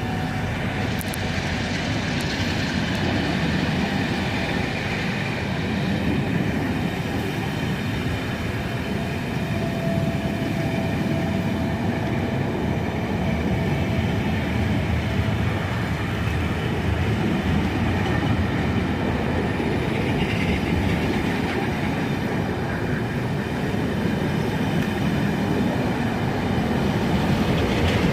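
A train running along the track with a steady, continuous rumble, and a faint thin whine for a few seconds around the middle.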